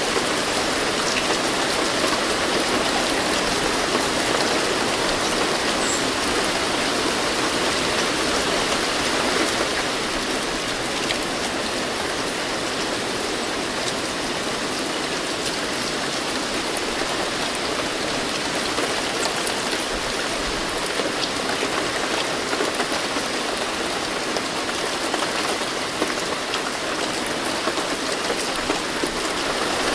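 Steady rain falling: an even hiss of rain with fine patter of drops on a surface.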